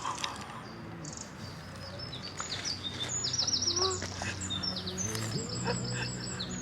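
A songbird singing two quick runs of high, rapidly repeated sweeping notes, about three and five seconds in, over a low steady hum.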